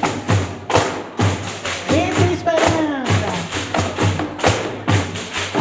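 Pandeiros played together in a steady, driving rhythm, deep thumps from the drum heads under bright jingle strokes, with a voice calling out over the beat.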